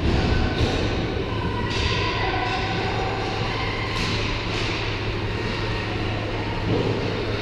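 Ice hockey play heard from rinkside: skates carving and scraping the ice in several sudden hissing strokes, over a steady low arena hum.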